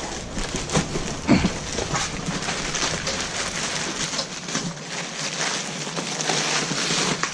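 Scattered light knocks, clicks and rustling, like work materials being handled, with no power tool running.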